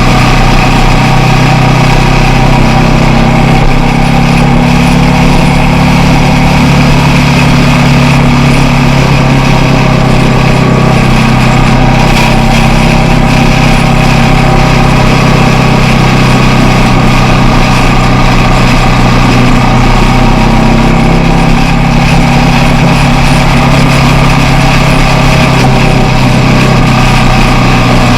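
Motorcycle engine running steadily while riding. Its pitch holds fairly even, with small dips and rises along the way.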